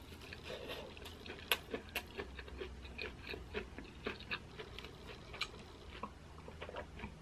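Close-up chewing of a mouthful of corn cheese (sweet corn kernels under melted mozzarella): a steady run of small, wet mouth clicks and smacks.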